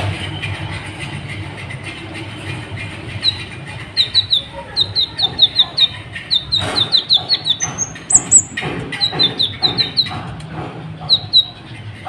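Kolibri ninja sunbird calling: quick runs of short, high chirps, several a second, starting a few seconds in, with a couple of higher notes partway through and a last short run near the end.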